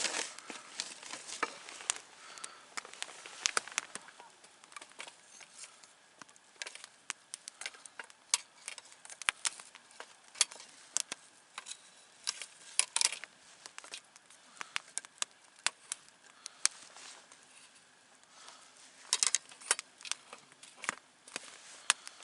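Wood campfire crackling, with irregular sharp pops over a faint hiss and a quick run of louder pops near the end.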